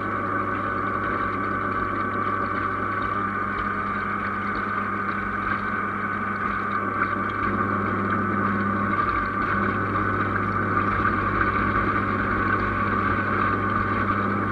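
Radio-controlled fishing bait boat's electric motor running steadily: a continuous whine over a low hum.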